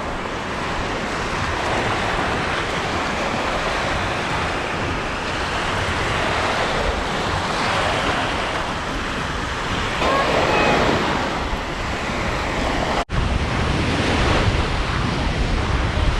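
Steady rush of wind and surf, with wind buffeting the microphone as a low rumble. The sound cuts out for an instant about thirteen seconds in.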